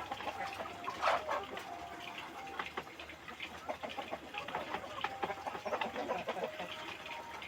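A flock of village chickens clucking, with many short calls overlapping and one louder call about a second in.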